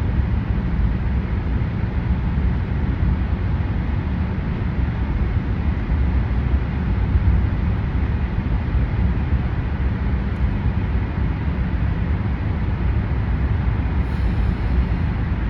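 Steady low rumble of a car driving in traffic through a road tunnel: engine, tyre and traffic noise.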